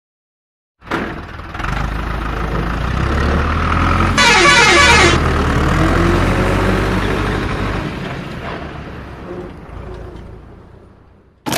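A heavy vehicle approaching and passing by, with a horn blast about four seconds in whose pitch falls as it goes past, then the engine sound fading away.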